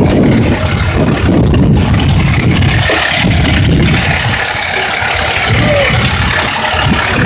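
Fire ladder truck's diesel engine idling with a steady, loud rumble.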